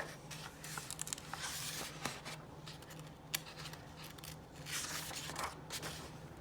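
Soft rustling of picture-book pages being handled and turned, with a couple of light clicks, over a faint steady low hum.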